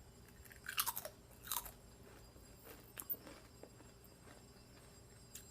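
Ruffles ridged potato chips being bitten and chewed: two crisp crunches in the first two seconds, then a sharp click and fainter chewing.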